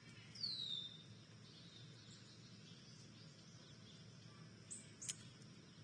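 A songbird gives one short, clear down-slurred whistle, followed near the end by two brief sharp clicks over faint steady background noise.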